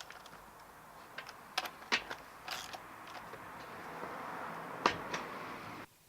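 Scattered sharp clicks and light knocks of parts being handled while working on a chainsaw by hand, over a faint steady hiss; the sound cuts off suddenly near the end.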